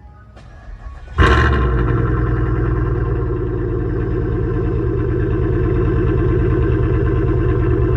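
2006 Chevrolet Impala SS's 5.3-litre V8 firing up on a cold start about a second in, with a loud flare. It then settles into a steady fast idle through Flowmaster mufflers with the resonators deleted.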